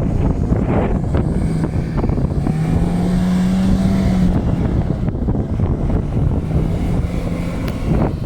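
Ford Taunus 1.6 GL engine running hard as the car is driven, its pitch climbing to a higher rev about three seconds in and then easing back, with wind buffeting the microphone.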